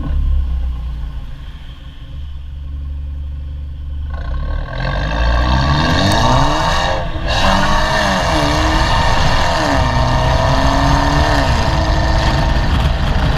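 Infiniti Q30 2.0t's turbocharged four-cylinder engine through a STONE aftermarket full exhaust: a low, steady drone for about four seconds, then the engine is revved, its pitch climbing and falling several times.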